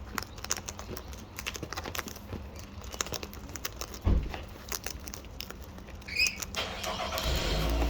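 Birds eating seed, a dense run of small quick clicks and taps as they peck and crunch the seed, with a single thump about four seconds in. Near the end a low rumble comes up under the pecking.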